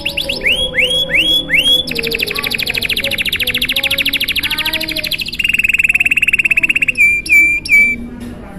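Domestic canary singing a long, unbroken song: a few sweeping downward notes, then a fast high trill, which drops to a lower trill about halfway through, ending in three short notes near the end.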